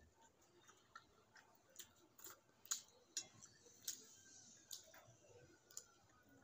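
Faint, irregular wet lip smacks and mouth clicks, about two a second, of someone chewing a mouthful of rice and fish curry eaten by hand.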